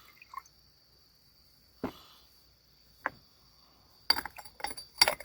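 Insects give a steady, high, continuous trill. Over it come two single knocks, then a quick run of louder knocks and clatter near the end, as hard objects are handled and set down.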